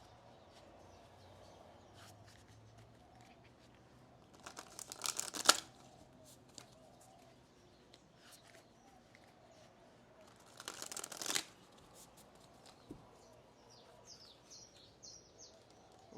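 A deck of oracle cards being shuffled: two short bursts of rustling card noise, the first about five seconds in and the second about eleven seconds in.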